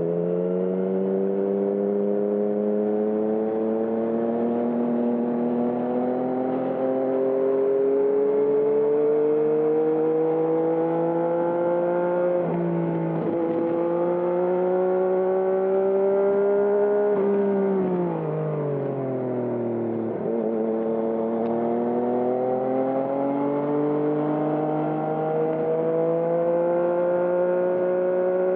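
2020 Yamaha MT-09's inline-three engine through a Termignoni exhaust, pulling under load with the revs climbing slowly. There is a brief dip in revs about twelve seconds in, the revs fall away steeply around eighteen seconds in as the bike slows, and then they climb again.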